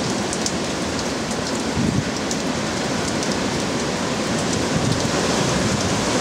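Heavy hurricane rain falling hard on the yard: a dense, steady hiss with many small, sharp drop hits.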